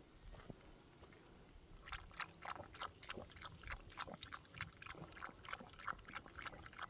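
A dog lapping water, a quick run of wet laps starting about two seconds in.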